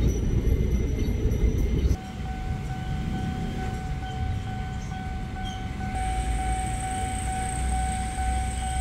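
Electric commuter train rumbling, with a steady high whine. The rumble drops abruptly about two seconds in, and a second, higher whine joins about six seconds in.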